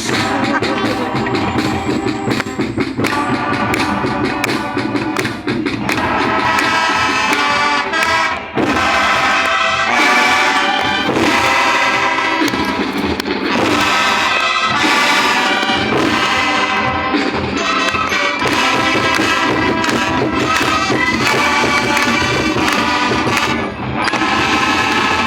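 A student band playing a tune, with melody phrases carried over continuous percussion.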